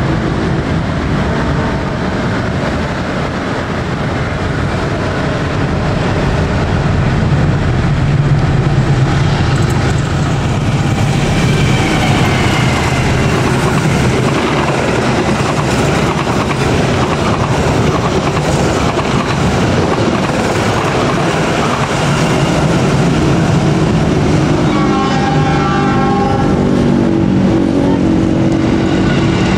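Diesel-hauled passenger trains passing close by: the locomotive's engine rumbles and the coaches' wheels clatter over the rail joints. A multi-tone train horn sounds for a few seconds near the end.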